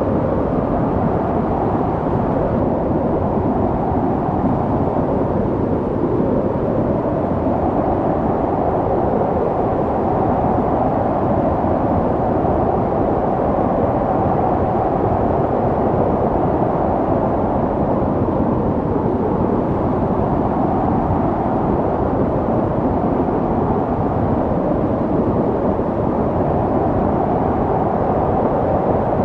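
Snowstorm wind: a steady, low rushing noise with a hollow band that slowly swells and eases over several seconds.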